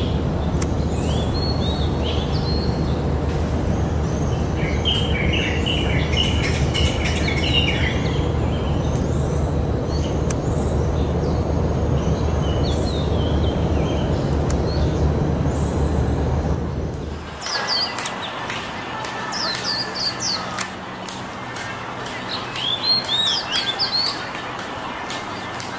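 Small birds chirping in short, high calls over a steady low rumble. The rumble cuts off abruptly about two-thirds of the way through, after which the chirps stand out more clearly.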